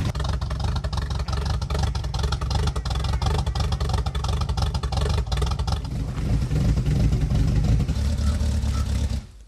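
Jeep Cherokee's carbureted engine running hard under load as the truck crawls over rough off-road ground, with frequent knocks and rattles; the sound cuts off suddenly near the end.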